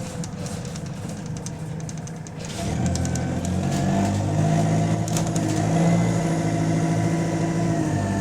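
Diesel bus engine running, with light clicks and rattles over the quieter first part, then pulling away about two and a half seconds in, its note rising and growing louder. The bus has an exhaust leak.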